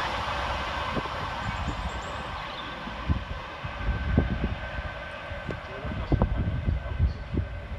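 Class 390 Pendolino electric train passing through and fading away, its noise dying down steadily, with a scatter of short low thumps in the second half.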